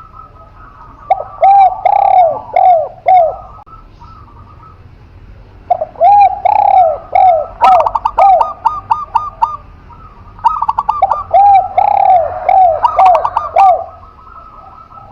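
Spotted dove (tekukur) and zebra dove (perkutut) cooing: three phrases of repeated arched coos, each a second or two long, alternating with quicker runs of higher, shorter notes.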